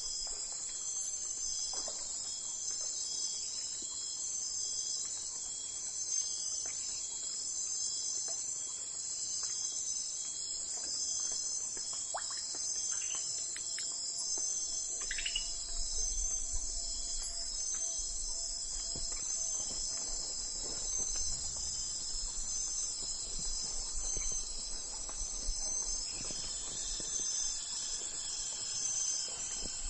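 Steady high-pitched chorus of chirping insects, pulsing without a break, with a few faint bird calls scattered through it. A low rumble comes in about halfway through.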